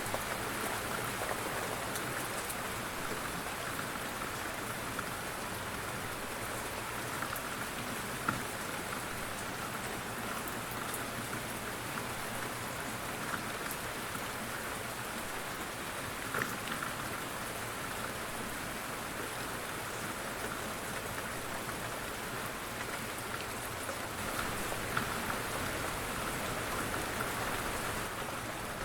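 Light rain falling steadily on a surface: an even patter with scattered individual drops, and a few louder drop hits along the way.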